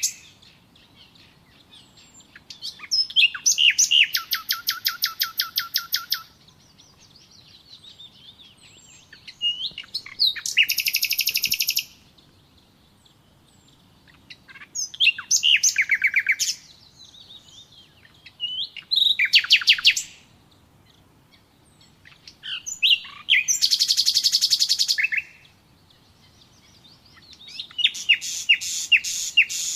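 Songbird singing: a fast run of repeated notes and trills lasting two to three seconds comes about every five seconds, six times, with faint chirps in the gaps.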